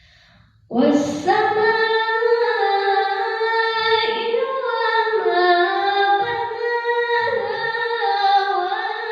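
Melodic Quran recitation (qiro'ah): after a brief silence, a high, strong solo voice comes in about a second in and holds long, ornamented notes that step and glide in pitch.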